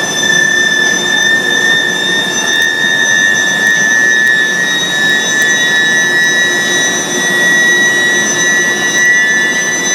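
IGBT induction heating furnace running: a steady high-pitched whine of several tones over a loud hiss. About halfway through, a second tone drifts slightly higher than the main one.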